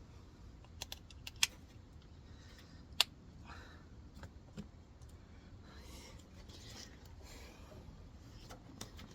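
Hand tools and metal parts being handled: a handful of sharp clicks and clinks, the loudest about one and a half and three seconds in, with softer scraping around six to seven seconds in.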